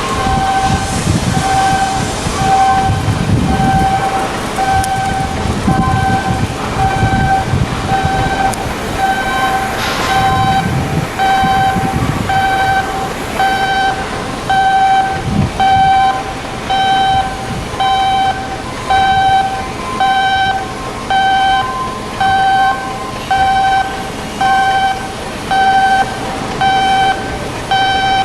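An electronic warning beeper sounding a steady tone about once a second, over rumbling and knocking from heavy machinery at work in a shipyard.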